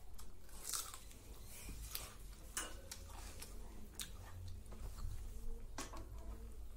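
Close-up mouth sounds of a person eating rice and curry by hand: chewing with scattered sharp, wet smacks and clicks a few times over a low steady hum.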